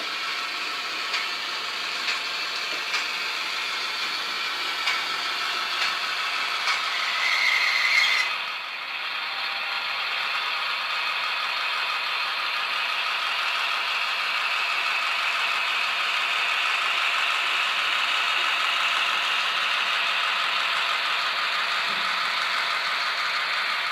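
Model locomotive running with its digital sound decoder playing locomotive sound through its small speaker, over the whir of the motor and gears. About one click a second for the first eight seconds as the sound builds to a brief peak, then a steadier, thinner tone.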